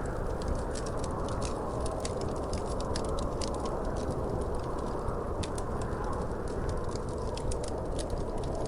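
Wood fire crackling in a fireplace: a steady low rush of burning with frequent, irregular sharp pops and snaps.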